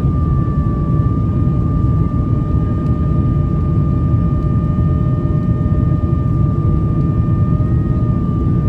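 Cabin noise inside a Boeing 767-300ER climbing after take-off: a loud, steady rumble of jet engines and airflow, with a steady whine from the engine fans over it.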